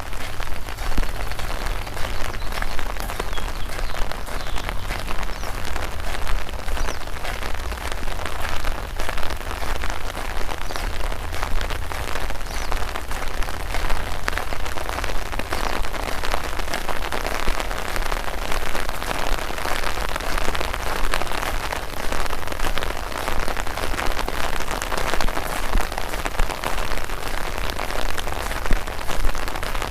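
Steady rain falling, a constant hiss packed with close, quick raindrop ticks, over a low rumble.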